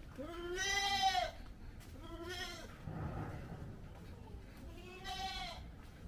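A goat bleating three times: a long first bleat lasting about a second, a shorter one about two seconds in, and a third about five seconds in.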